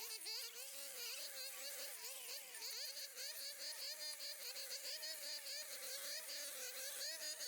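Insects buzzing: a steady drone that wavers up and down in pitch, with a fast, evenly pulsing high-pitched chirping over it.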